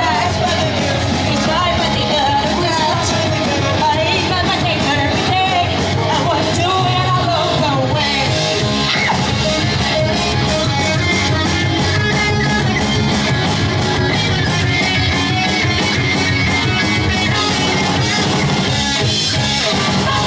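Pop-punk band playing live, loud and continuous: distorted guitars, bass and drums with a shouted lead vocal.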